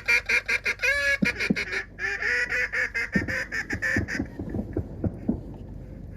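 Duck quacking in two fast runs of short, loud calls, the second stopping about four seconds in, followed by softer, lower quacks spaced apart.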